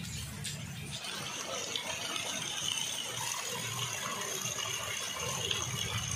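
Heavy rain pouring steadily onto trees and leaves, a continuous hiss with a low rumble beneath it.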